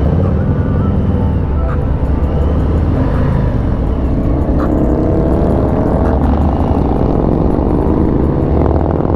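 Harley-Davidson Street Bob's Milwaukee-Eight V-twin running loudly under way, its pitch climbing as the bike accelerates from about the middle.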